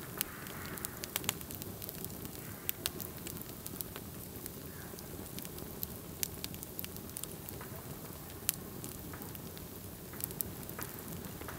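Campfire crackling: a steady hiss under irregular sharp pops and snaps, the loudest pop about three-quarters of the way through.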